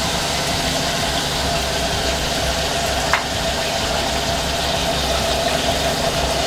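Yam chips deep-frying in hot oil, a steady sizzle with a constant hum underneath and one sharp click about three seconds in.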